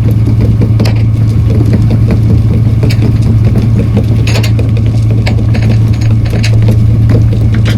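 Fishing boat's engine and deck machinery running: a steady low drone with fast mechanical ticking, and sharp metallic clanks about a second in, at about three and four seconds, and near the end.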